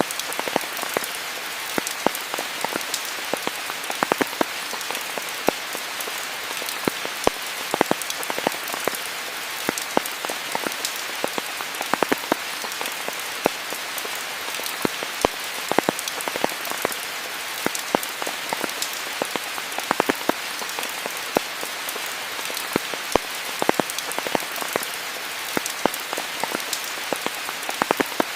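Steady rain falling, an even hiss with many close, irregular drop impacts ticking through it.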